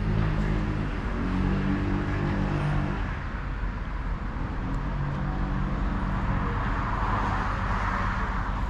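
Road traffic: motor vehicle engines running, with a swell of tyre and engine noise from a vehicle passing near the end.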